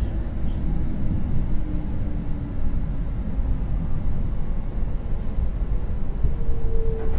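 Kintetsu 2050 series electric train running, heard from inside the car: a steady low rumble of wheels and running gear, with a faint whine that dips slightly in pitch and a higher tone near the end.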